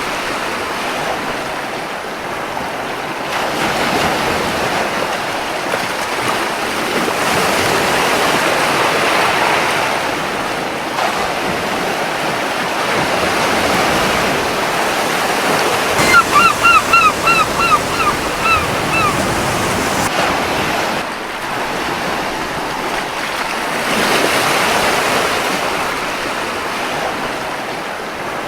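Gentle surf washing on a beach, swelling and easing every few seconds, with some wind. About halfway through, a seagull calls in a quick run of about ten short, slightly falling notes.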